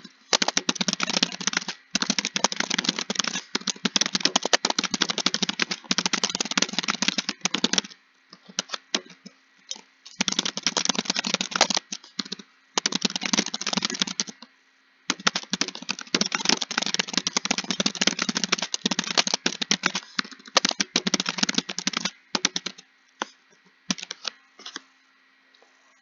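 Fast typing on a computer keyboard: rapid keystroke clicks in long runs, broken by brief pauses around 8 and 14 seconds in, thinning to scattered single keystrokes near the end.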